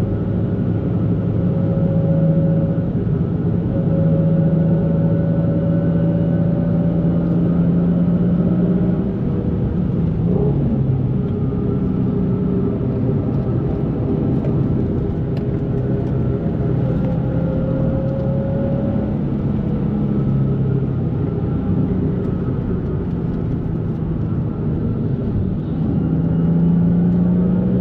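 2004 Nissan 350Z's 3.5-litre V6 with a Z1 dual exhaust and intake, cruising with a steady drone. The pitch shifts about ten seconds in and rises near the end.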